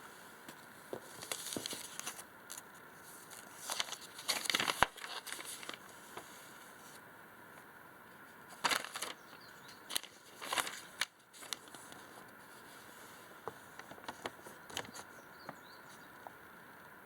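Crinkling and rustling handling noise in several short bouts, with a few light clicks near the end.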